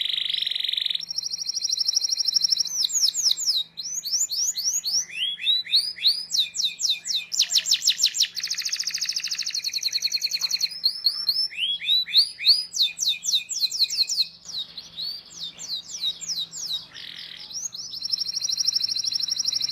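Domestic canary singing: fast, even rolling trills alternating with quick series of sharply swept chirps, the song switching phrase every second or two.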